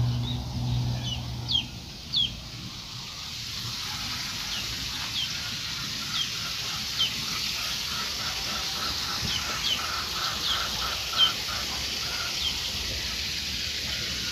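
Birds chirping, with short high chirps every second or so and a run of quick repeated lower notes through the middle, over a steady high hiss.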